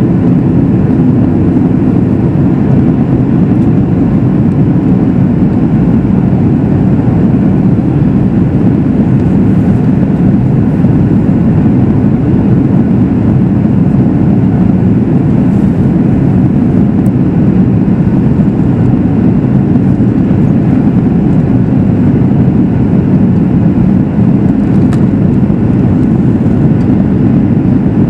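Steady, loud cabin noise inside a Boeing 737 MAX 8 in flight: a low, even rush of airflow and the CFM LEAP-1B engines, heard from inside the cabin.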